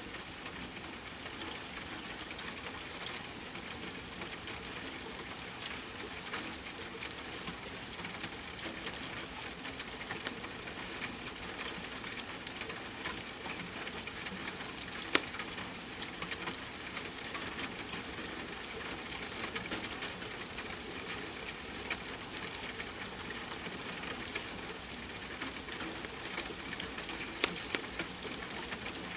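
Steady hiss of rain mixed with a wood fire crackling, with a few sharper pops from the fire, one about halfway through and one near the end.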